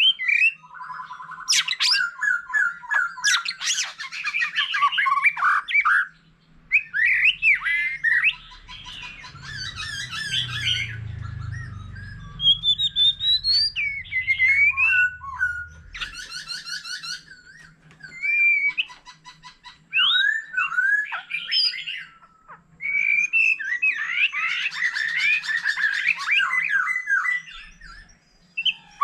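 White-rumped shama singing a varied song of whistled phrases, fast trills and harsh rattling notes, delivered in bursts with short pauses.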